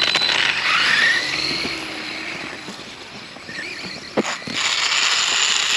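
Losi Promoto RC dirt bike's electric motor and gyro flywheel whining like a small airplane as it rides, the pitch gliding up and down with the throttle. The whine fades in the middle and swells again, with a sharp knock about four seconds in.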